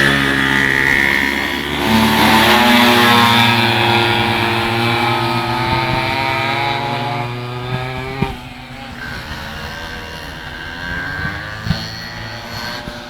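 Minimoto racing bikes' small two-stroke engines buzzing at high revs. The sound swells as the bikes pass close about two seconds in, then fades and drops slightly in pitch as they pull away, with two short sharp knocks later on.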